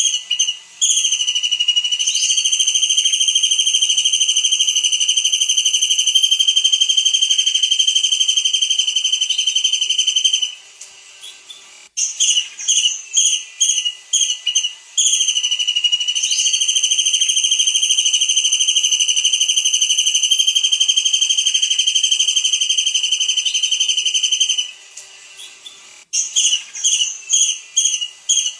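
Kingfisher calling: a quick run of short high notes, then one long, very fast, shrill trill held steady for about nine seconds. The sequence comes twice, with a third run of short notes starting near the end.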